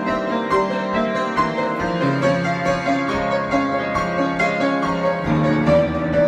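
Solo piano improvising, with many overlapping notes and chords; deeper bass notes come in about two seconds in and again near the end.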